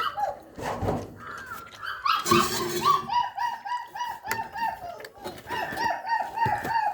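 Puppies whining and yelping, with a fast run of short repeated yelps, about four or five a second, through the second half.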